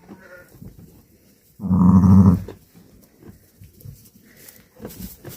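A newborn lamb bleating once, a single wavering call of under a second about a third of the way in, with faint knocks and rustling around it.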